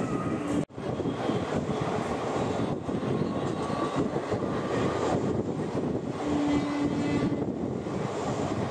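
Steady rumble and rush of a moving passenger train heard from its open window. The sound cuts out abruptly for an instant just under a second in. A short, steady low hum is heard about two-thirds of the way through.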